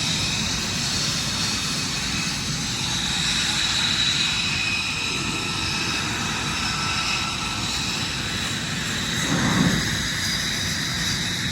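Jet aircraft engines running at an airfield: a steady rushing noise with a high whine, swelling briefly louder about nine and a half seconds in.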